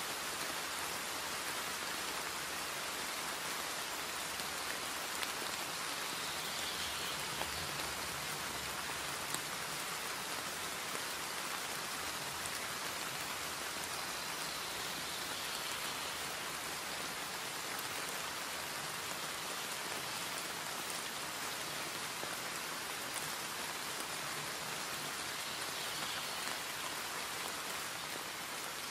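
Steady rain falling on hard surfaces, a dense even hiss with the odd sharper drop tick.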